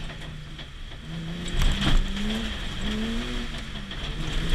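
BMW E30 325iX rally car's straight-six engine heard from inside the cabin, revving up and dropping back twice as it is driven hard, with a couple of heavy thumps about a second and a half in.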